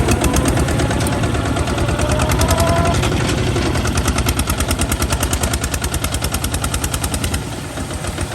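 Kubota ZT155 single-cylinder diesel engine running, a rapid, even chugging of exhaust pulses that eases slightly near the end.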